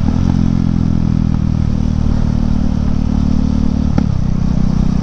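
KTM Duke 390's single-cylinder engine running at steady revs through a fitted BS4 exhaust, free-flowing without the BS6 catalytic converter. There is a brief click and a short dip in pitch about four seconds in.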